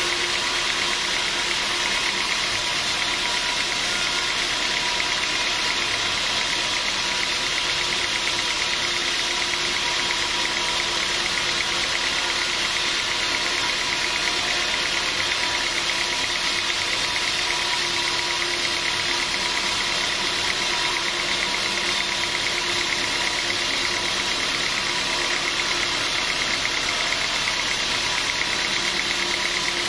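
Sawmill machinery running steadily: a loud, unchanging engine-like drone with fast, even pulsing.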